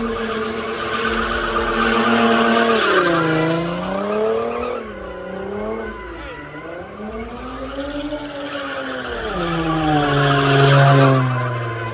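Car engine revving up and down repeatedly while its tyres squeal under wheelspin. The revs drop near the end, and the sound is loudest just before.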